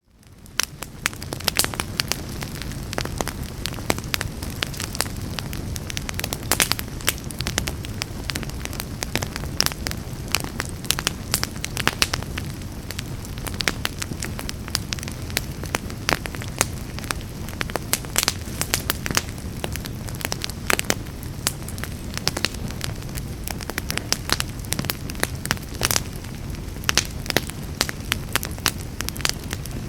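Fire burning in a fireplace, crackling with frequent sharp, irregular pops over a steady low rumble. It fades in from silence about a second in.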